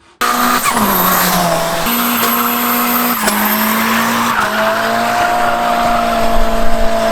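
A car engine held at high revs, its pitch stepping up and down a few times, with tyres squealing and skidding as the car is driven hard, as in drifting. It cuts in suddenly at the start.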